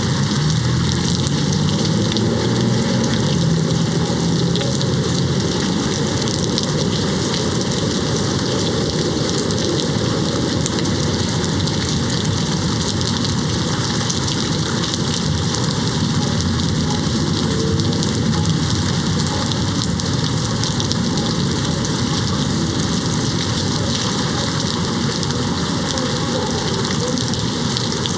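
Steady rain hitting a window, an even hiss that does not let up.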